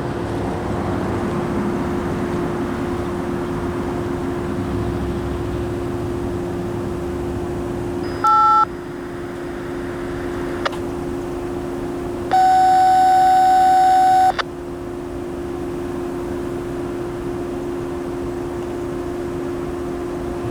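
Railroad scanner radio tones: a short two-tone touch-tone beep about eight seconds in, then a loud steady beep lasting about two seconds, the kind of call-up keyed to reach the Wayside operator. A steady low hum runs underneath.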